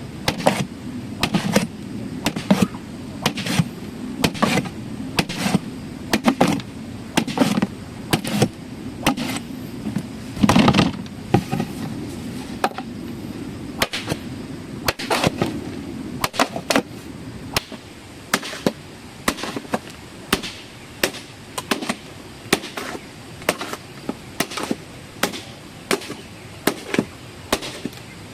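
Repeated sharp knocks of a tool striking, about one or two a second, over a low rumble that fades out about halfway through.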